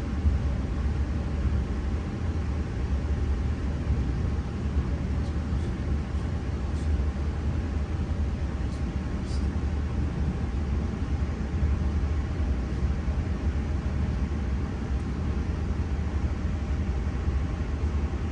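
Steady low rumble of a train in motion, with a faint steady hum above it and a few faint ticks about a third of the way through.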